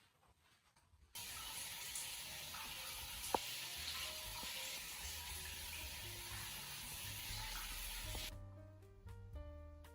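Tap water running steadily into a sink for about seven seconds, starting and stopping abruptly, with a single sharp click partway through. Soft background music with plucked notes plays under it and carries on alone near the end.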